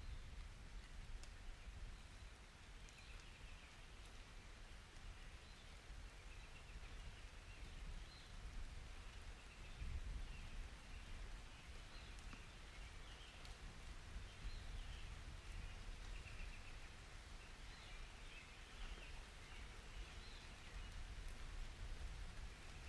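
Faint rain-and-birds ambience recording: small birds chirping in short repeated calls over a soft hiss of rain and a low rumble.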